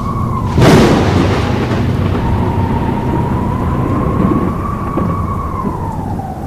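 A sudden loud thunder-like crash about half a second in that dies away over a couple of seconds, over a steady, slowly wavering high howl and a low rumble like blizzard wind.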